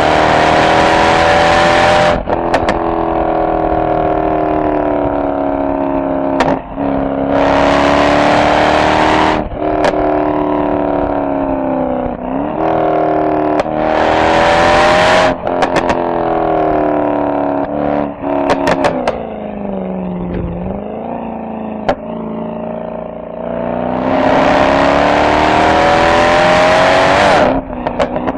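Mercedes-AMG SL63's V8 exhaust on a spirited drive, rising hard in pitch under full throttle four times, with sharp cracks and pops when the throttle is released between pulls. About two-thirds of the way through, it drops to a low burble as the car slows before picking up again.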